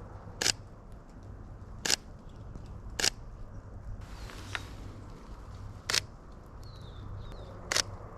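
Sony A7III camera shutter firing five single shots at uneven intervals, each a short sharp click.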